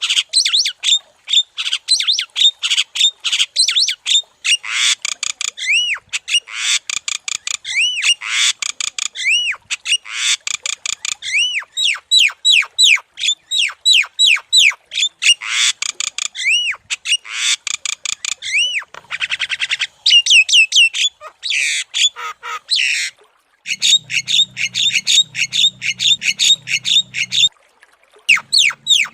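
Javan myna (jalak kebo) singing continuously: a rapid stream of harsh chattering and squawking notes, mixed with clear whistled notes that rise and fall, repeated about once a second. A brief pause comes near the end, after which a faint low hum sits under the calls.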